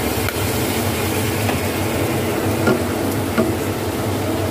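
Chicken pieces sizzling in a wok just after soy sauce has gone in, with a wooden spatula stirring and a few short knocks against the pan about a second apart, over a steady low hum.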